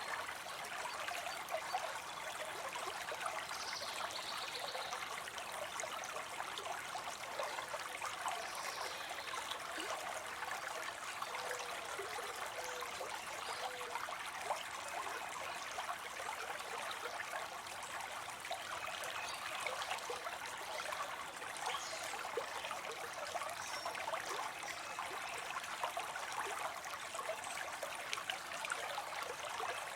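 Water spilling into a pond: a steady trickling splash, thick with small crackling droplet sounds.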